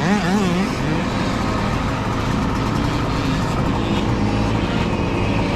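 Several mini dirt bike engines racing, their pitch rising and falling as the riders work the throttle. In the first second one engine's note wobbles quickly up and down.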